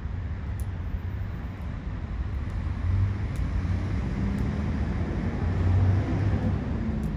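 Ubame oak firewood burning in a fire pit, with a few faint pops over a steady low rumble.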